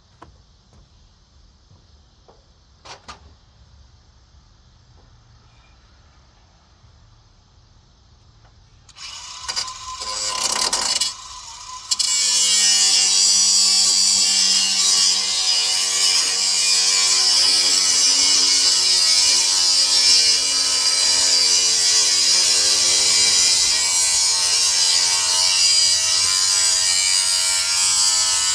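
A couple of faint clicks, then an electric motor-driven machine starting up about nine seconds in and, from about twelve seconds, running loud and steady with a hum and a strong hiss.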